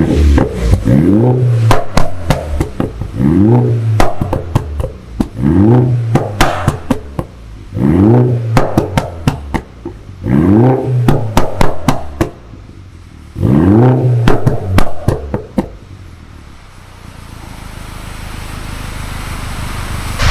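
MINI Cooper S F55's turbocharged 2.0-litre B48 four-cylinder, on a full aftermarket exhaust system, revved in short blips about every two seconds. Each blip is followed by a rattle of crackles and pops as the revs drop. For the last few seconds it settles to a quieter idle.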